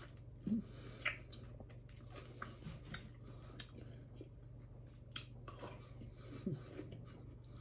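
A person biting into and chewing fresh pineapple spears: faint, wet mouth sounds with scattered small clicks.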